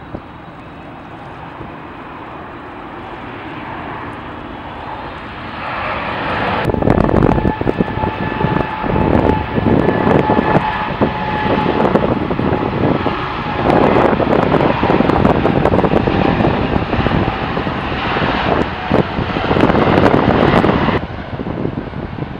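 Jet airliner engines passing close. The roar builds over several seconds, then runs loud with a crackling rasp and a steady whine for about fifteen seconds before dropping suddenly near the end.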